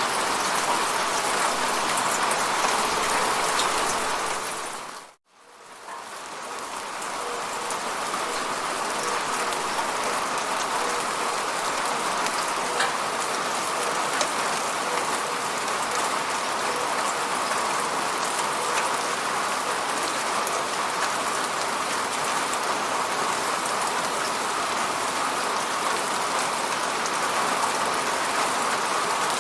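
Steady falling rain, a dense even patter of drops. About four seconds in it fades away to silence, then swells back to full over the next few seconds.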